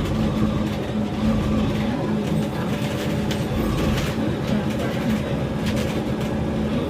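Bus heard from on board while driving: a steady engine and transmission drone over low road rumble, with scattered short rattles from the body.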